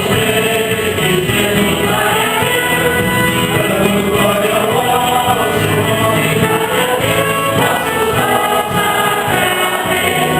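Church choir of mixed voices singing a Catholic hymn with instrumental accompaniment.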